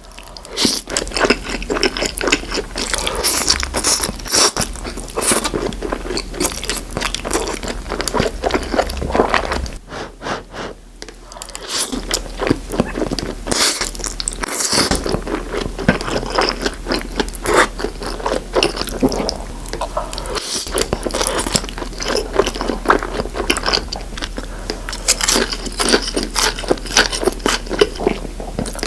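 Close-miked eating sounds: a person biting, crunching and chewing food in dense, irregular crunches, with a brief lull partway through.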